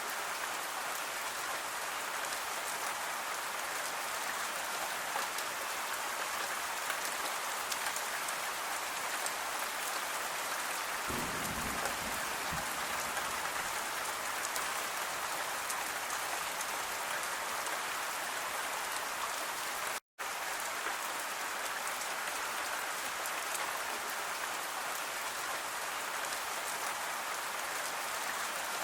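Steady rain falling, a dense, even hiss, with a brief low rumble about eleven seconds in. The sound cuts out for a split second about twenty seconds in.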